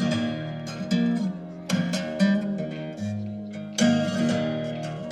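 Acoustic guitar picking and strumming a repeating chord pattern in an instrumental passage of a song, with no singing; each chord is plucked sharply and left to ring, about once a second.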